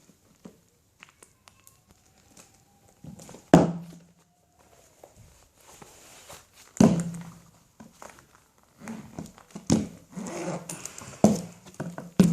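High heels stamping and treading on a vacuum cleaner's plastic housing: sharp knocks and thuds, the loudest about three and a half and seven seconds in, with scattered lighter taps and scrapes between and a quicker run of strikes near the end.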